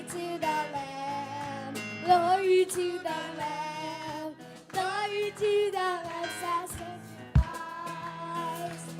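Worship song: high voices sing a melody over instrumental backing with a held low note, and a single thump about seven seconds in.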